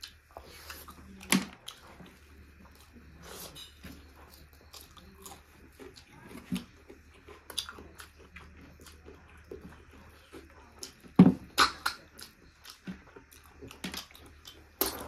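Close-up chewing and mouth noises of someone eating snail curry, with irregular sharp clicks, the loudest about eleven seconds in.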